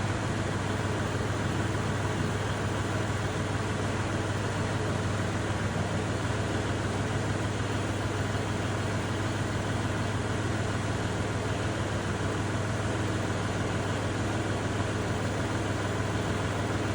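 Kubota tractor's diesel engine idling steadily, with a low, even hum that does not change.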